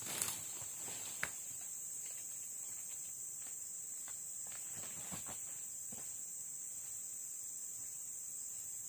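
Steady, high-pitched shrill chorus of insects in tropical forest. A few footstep crunches in the first second and some faint rustling clicks midway.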